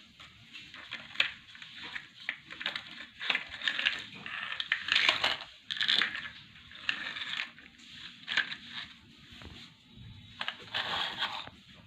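Toys being handled: an irregular run of clattering and scraping with sharp clicks, loudest around the middle and again near the end.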